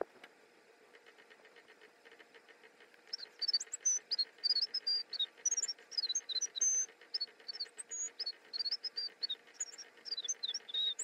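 A bird singing: a rapid run of short, high chirps that jump and slide in pitch, starting about three seconds in, over faint rapid ticking and a low steady hum.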